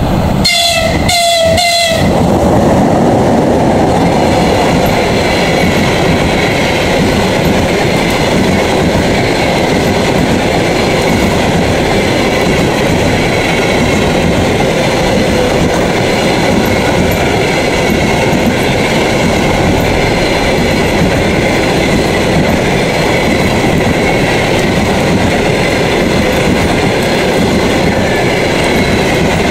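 A train horn sounds three short blasts about a second in. A train then passes close by for the rest of the time, its wheels and cars running steadily on the rails with a clickety-clack.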